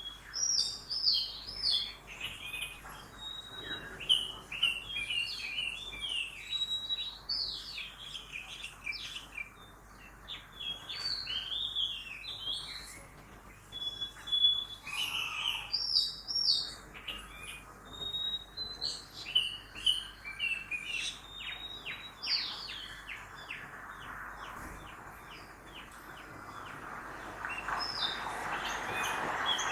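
Several birds chirping and singing at once: a dense chorus of quick chirps, trills and short whistled notes. Over the last few seconds a noise from passing traffic swells up beneath the birdsong.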